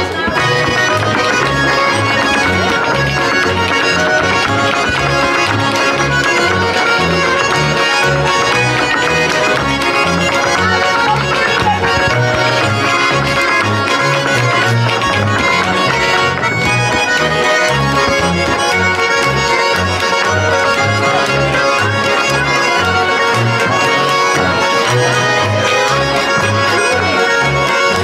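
Accordion-led Swiss folk dance music played continuously, with a steady, bouncing bass line under the melody.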